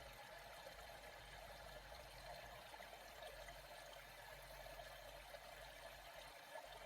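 Faint, steady sound of flowing water, with no distinct splashes or strokes.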